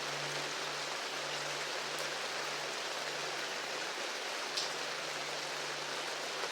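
Steady rain falling, an even hiss with a few separate drips, and a faint low held note dying away underneath.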